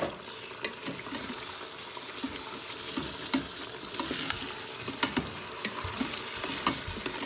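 Goat trotters, onions and spice masala sizzling as they fry in a hot stainless steel pot while a spoon stirs them, with scattered scrapes and knocks of the spoon against the pot.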